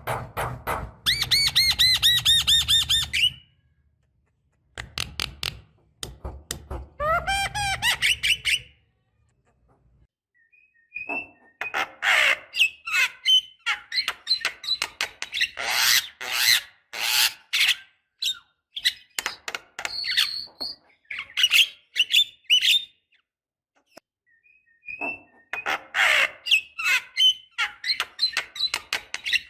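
Javan myna (jalak kebo) singing: fast runs of clicks and harsh rasping chatter mixed with rising whistled notes, delivered in bursts separated by short pauses.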